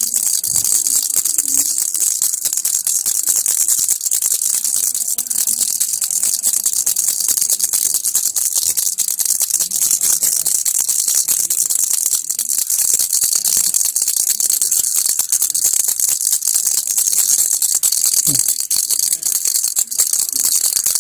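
Toy baby rattle (kilukki) shaken continuously, a dense, steady, high-pitched rattle of beads or pellets inside the toy.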